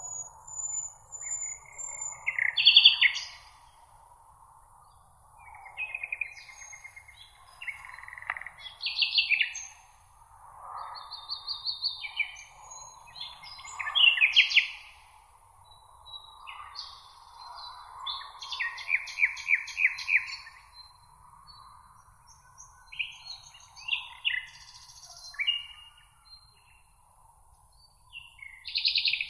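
Several songbirds singing in a meadow, their short phrases, trills and quick repeated notes overlapping one after another, over a faint steady high hiss.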